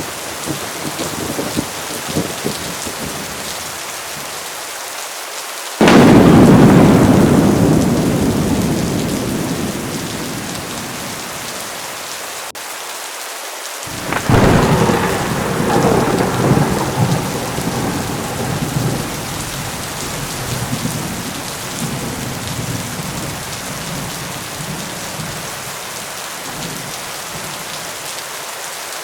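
Heavy rain pouring steadily in a thunderstorm. About six seconds in, a sudden, very loud thunderclap rolls away over several seconds. Another clap about fourteen seconds in rumbles on unevenly for several seconds more.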